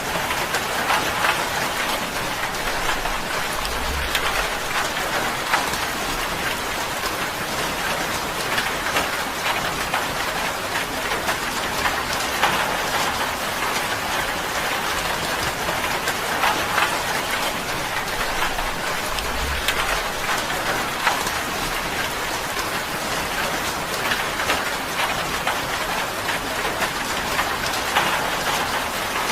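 Steady rain drumming on a tin roof, a dense patter with many sharp individual drop hits.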